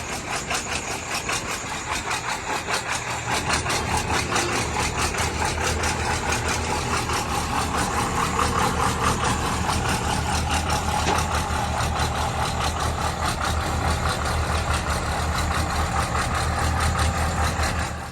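Truck engine running steadily at low revs, with an even clatter and no revving.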